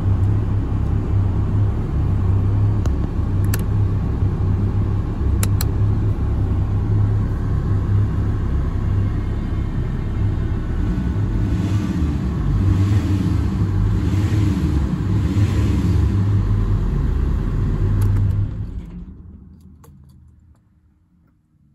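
Alfa Romeo 166 facelift's 2.4 JTDm five-cylinder common-rail diesel running steadily while warming up, with a low rumble. Near the end the sound dies away.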